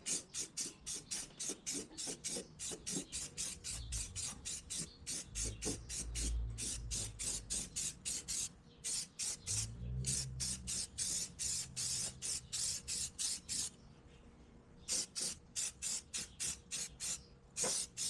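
Aerosol spray can being shaken hard, its mixing ball rattling in a fast even rhythm of about four strokes a second, with a brief pause about fourteen seconds in.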